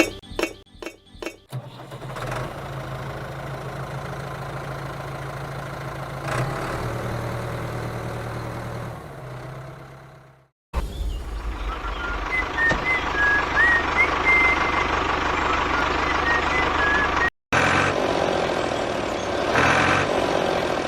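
Steady engine-like running sound of a mini model vehicle, broken off sharply twice, with a few glassy clinks at the start.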